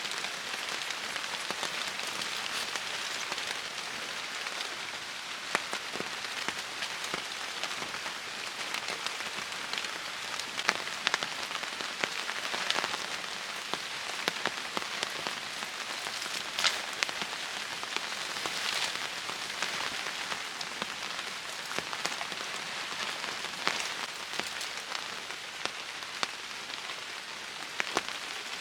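Steady heavy rain falling, a continuous hiss with many sharp drop hits on a hard surface.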